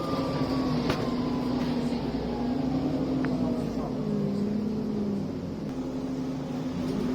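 ADL Enviro 400 double-decker bus engine running with a high turbo whine. The pitch slowly falls through the first half and rises again near the end as the bus picks up speed.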